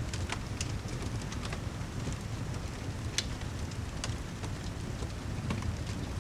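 Steady rain ambience with a low rumble underneath, dotted with scattered sharp taps and pops.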